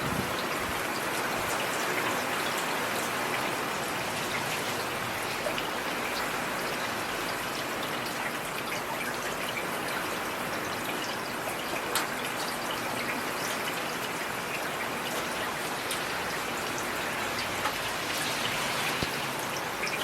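Heavy rain falling steadily, a dense even hiss of drops with a few sharper single drop hits now and then.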